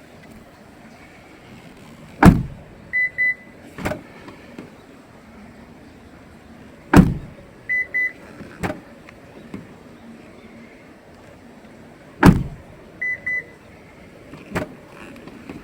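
A Toyota Harrier's door being shut three times, about five seconds apart. Each heavy thump is followed by two short high beeps and then a lighter knock.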